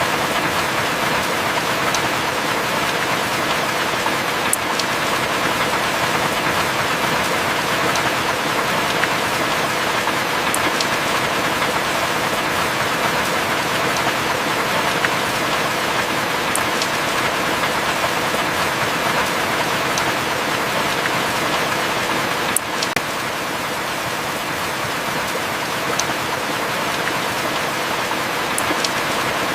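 Steady heavy rain hissing, with a few faint sharp drip ticks scattered through it. No thunder rolls. The level drops slightly about three-quarters of the way through.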